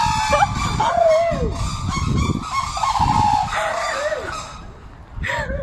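A run of honking, goose-like bird calls, several of them sliding down in pitch, over a low rumble.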